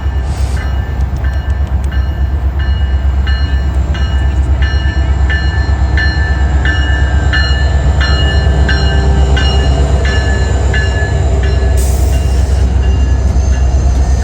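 An Alaska Railroad train arriving, its diesel locomotive running with a loud, steady low rumble while a bell rings over and over, about twice a second. A short hiss comes near the end.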